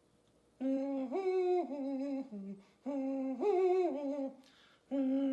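A person humming a short waiting tune while a riddle is pondered: the same four-note phrase of held notes, rising then falling back and dipping lower, three times.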